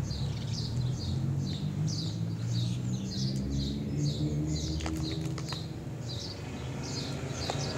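A bird chirping over and over, short high chirps about two to three a second, over a low steady hum. A few sharp clicks come about five seconds in.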